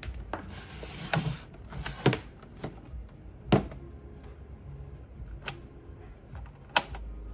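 A series of sharp knocks and clacks, about five distinct ones a second or so apart with smaller clicks between, over a low hum.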